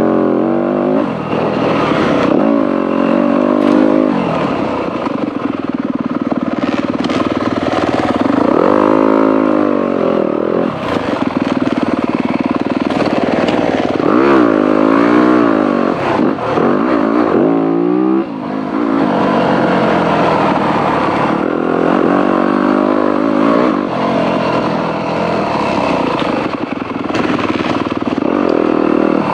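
Dirt bike engine ridden on trail, revving up and down with the throttle, its pitch rising and falling in repeated waves. It pulls hardest about a third of the way in and again around the middle.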